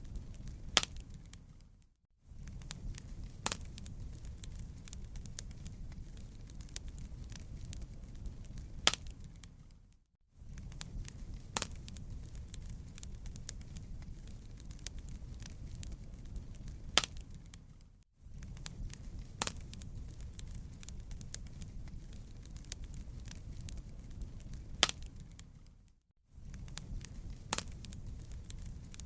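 Crackling wood fire: a steady low rumble with scattered sharp pops and snaps. It drops out briefly about every eight seconds, where the fire recording loops.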